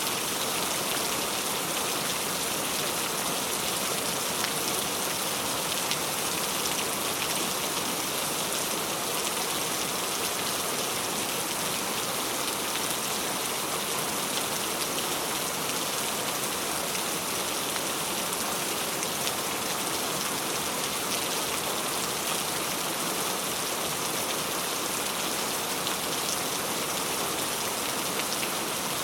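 Heavy rain falling steadily, a dense hiss of many drops spattering on surfaces with no letup.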